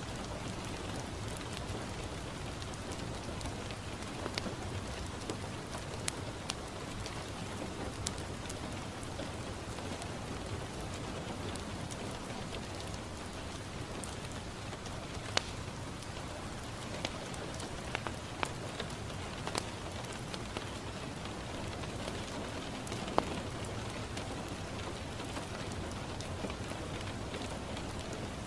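Steady rain on a window, an even hiss, mixed with a wood fire crackling: scattered sharp pops now and then, the loudest about two-thirds of the way through.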